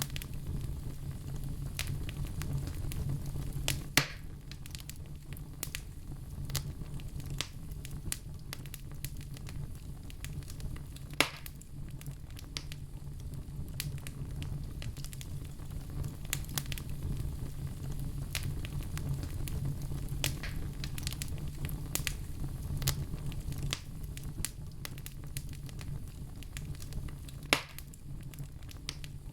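A fire crackling in a stove, with constant small snaps over a steady low rumble and three louder pops, about four, eleven and twenty-seven seconds in.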